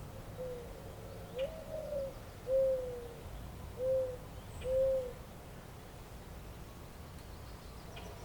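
A bird giving a series of five low hooting calls, the second drawn out and rising in pitch, over a steady faint outdoor hiss.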